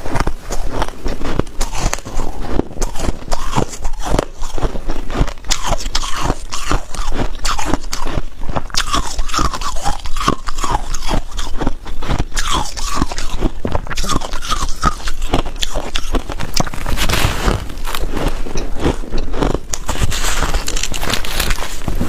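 Hard white ice cubes being bitten and chewed close to the microphone: a continuous run of sharp crunches and cracks.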